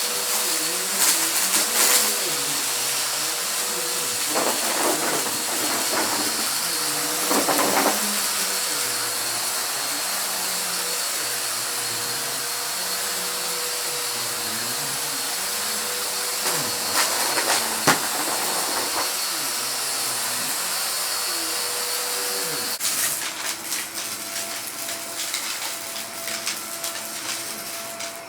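Vacuum cleaner running steadily with a high whine, debris crackling through the nozzle now and then. About 23 s in, the motor note changes and a fast, dense clatter of picked-up bits starts.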